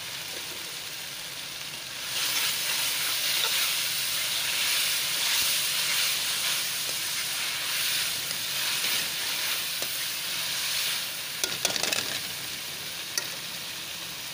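Bitter gourd and masala with freshly added green chillies sizzling in oil in a metal karahi while being stirred with a metal spatula. The sizzle gets louder about two seconds in and eases near the end, with a few clicks of the spatula against the pan.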